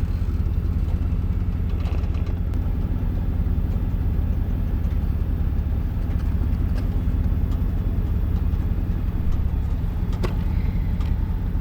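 Truck engine idling steadily, with a single sharp click about ten seconds in.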